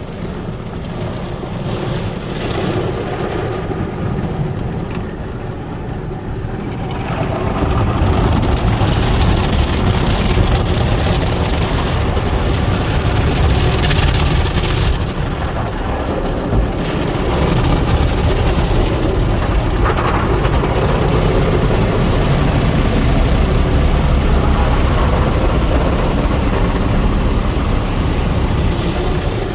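Automatic tunnel car wash equipment working over a car, heard from inside the cabin: a steady rushing rumble that grows louder about seven seconds in.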